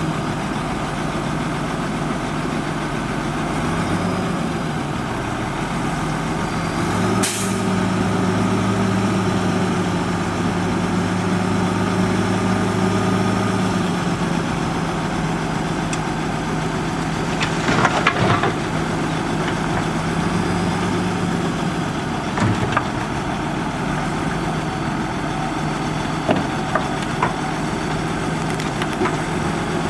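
Motor grader's diesel engine running steadily, its level and pitch rising about a quarter of the way in and easing back a little before halfway. There is a short hiss as the engine rises, and a brief burst of sharp metallic clatter a little past halfway.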